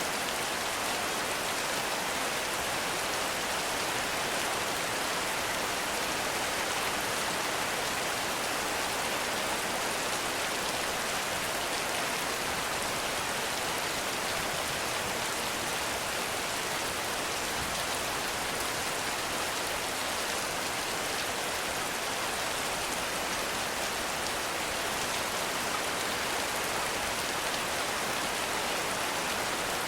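Heavy rain falling in a forest: a dense, even hiss that keeps up steadily, with no thunder and no breaks.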